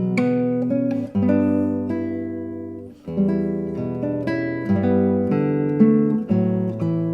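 Classical guitar music: plucked notes and chords ringing and decaying in a slow, flowing pattern.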